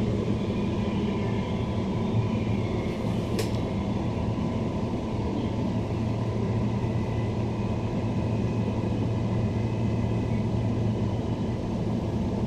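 Interior running noise of a Queensland Rail NGR electric multiple unit pulling into a station: a steady low rumble with a faint whine above it, and a brief click about three and a half seconds in.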